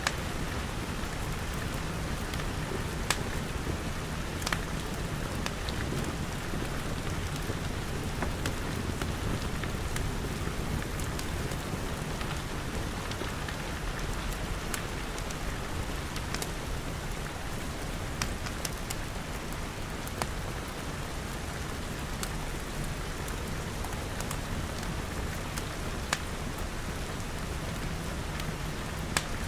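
Steady rain falling on glass, with a low rumble beneath it and a dozen or so sharp crackles from a wood fire scattered through.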